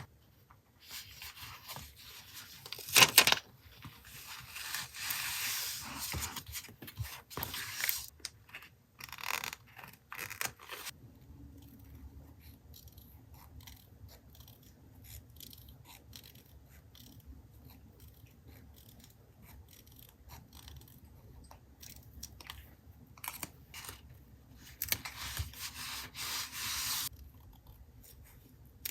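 Paper and sticker sheets being handled for a journal collage: rustling, rubbing and peeling in bursts, with a few sharp taps. It goes quieter in the middle before another spell of rustling near the end.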